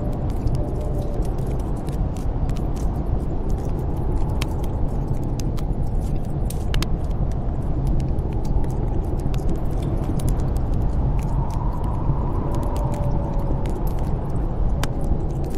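Snowstorm wind blowing steadily with a deep rumble and a faint whistle that rises and falls now and then, over a wood fire in a fireplace crackling with frequent small sharp pops.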